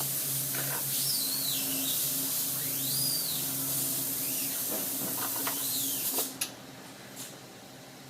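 A steady hiss of pressurised spray that shifts a little in pitch, then cuts off about six seconds in. A faint low hum runs underneath.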